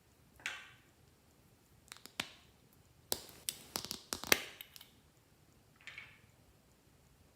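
Glossy slime being handled: two short soft squishes and a run of sharp clicky pops, densest about three to five seconds in.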